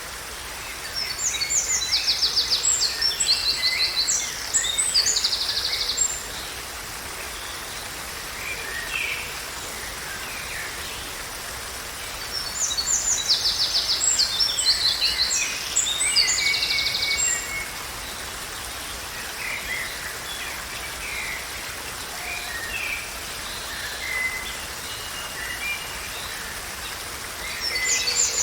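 Songbirds singing in two long bouts of rapid, trilling high phrases, with scattered fainter chirps between them, over a steady background hiss.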